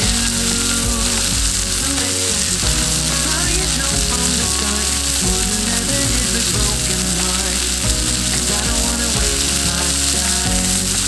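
Rib-eye steak sizzling steadily in a black-iron frying pan, a dense, continuous frying hiss.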